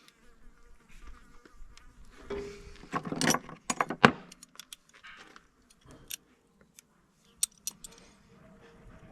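Hand tool and battery cable being worked as the insulation is pulled and cut off the wire: scattered clicks, snips and scrapes, busiest about three to four seconds in, with a brief buzz a little after two seconds.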